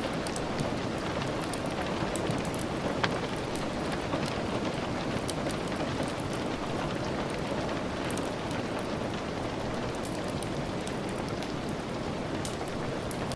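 Steady rain, with scattered sharp crackles and ticks over it, one louder about three seconds in.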